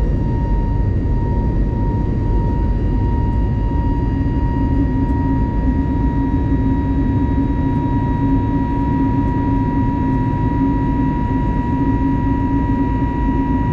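Steady in-flight cabin noise of an Airbus A320neo with CFM LEAP-1A engines: a deep, even rumble of engines and airflow with a thin steady whine on top. A low hum within the rumble grows stronger a few seconds in.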